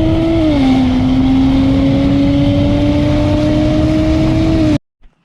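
Lexus GS300's straight-piped 2JZ-GE inline-six, with no cats and no mufflers, running under load: a steady droning exhaust note that dips in pitch about half a second in, then climbs slowly as the car accelerates. It cuts off abruptly near the end.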